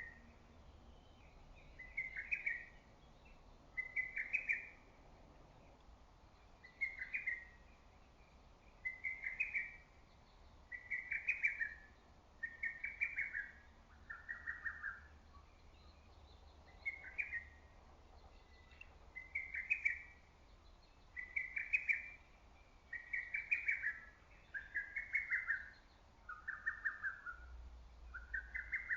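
Lesser cuckoo (hototogisu) singing its staccato song over and over, one phrase about every two seconds. Each phrase is a quick run of five or six notes, and a few phrases are pitched lower than the rest.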